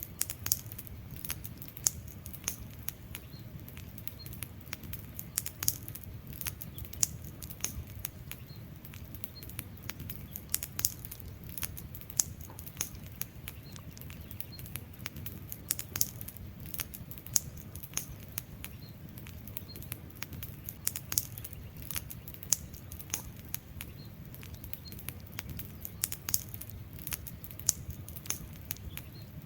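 Wood fire burning and crackling: irregular sharp snaps and pops, a few much louder than the rest, over a low steady rumble of the flames.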